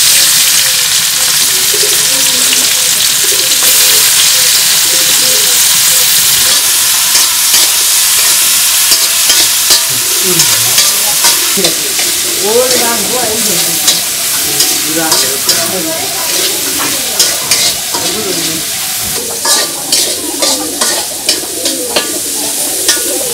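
Small prawns sizzling in hot oil in a metal wok, just dropped in, the sizzle loudest at first and easing slightly. A metal spatula scrapes and clinks against the wok as they are stirred, the clinks more frequent in the second half.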